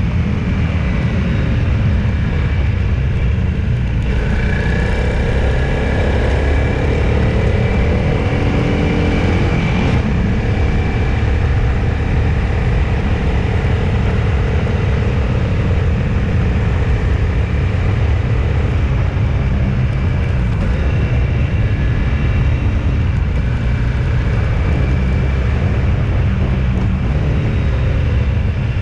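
Steady engine and road noise of a moving road vehicle, a heavy low rumble with an engine note that slowly rises and falls as the speed changes.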